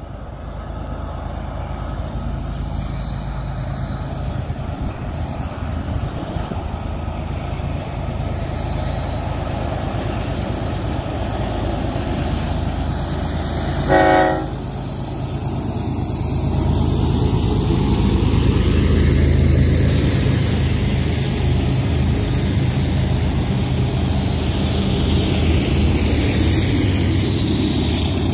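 Union Pacific freight train's diesel locomotives drawing near and passing, the low engine drone building to its loudest a little past the middle. One short horn toot about halfway through, and a thin steady high squeal over the train noise.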